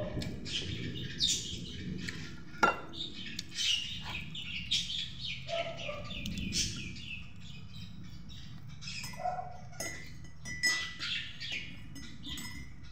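Small birds chirping in quick runs of short, high, falling chirps, with a single sharp tap about two and a half seconds in.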